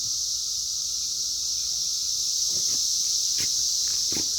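Cicadas in a steady, noisy, high-pitched chorus that does not let up, with a few faint taps in the second half.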